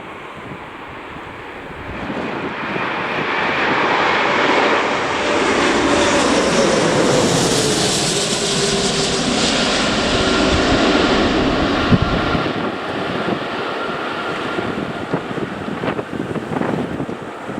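Aircraft engines swelling as a plane passes close by, loudest midway, with a tone that falls in pitch as it goes past, then easing off.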